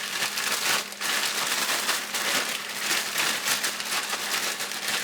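Plastic zipper-lock bag crinkling and rustling as chicken wings are shaken inside it in a dry coating mix, with a brief pause about a second in.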